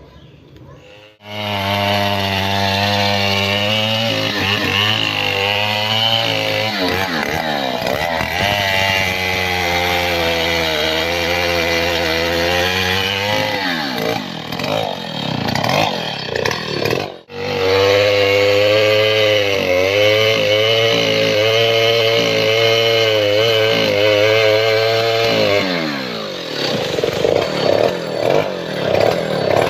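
Stihl 070 two-stroke chainsaw starting up about a second in and running loud at high revs, its pitch wavering as it works through the wood. It cuts out abruptly near the middle, runs on steadily, then drops in pitch near the end and revs up and down unevenly.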